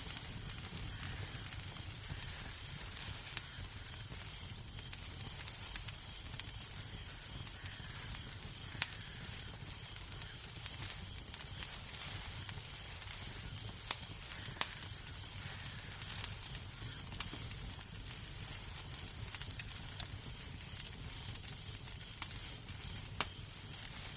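Wood fire crackling in a fireplace: a steady soft hiss with scattered sharp pops, half a dozen of them louder than the rest, over a low rumble.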